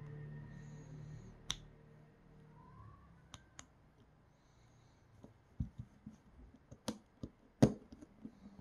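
Scattered small clicks and knocks of parts of a Creality Sprite 3D-printer extruder being handled by hand, sparse at first and bunched in the second half, with one loudest knock near the end.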